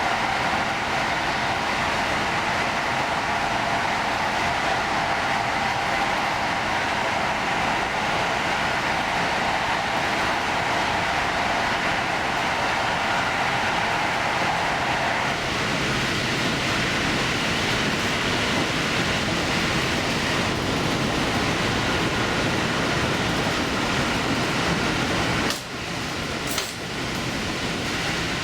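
Diesel limited-express railcar running at speed: a steady din of wheels on rail and engine. The tone changes about halfway through, and the noise briefly drops twice near the end.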